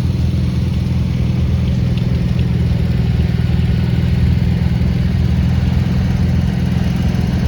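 Engine of a 1950 Farmall Super A tractor running steadily at low, even speed.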